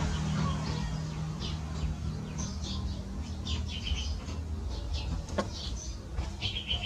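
Birds giving many short, high chirps over a low steady rumble.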